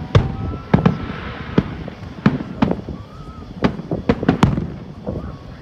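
Aerial fireworks display: about ten sharp bangs in an irregular series as shells burst overhead, over a low rumbling background.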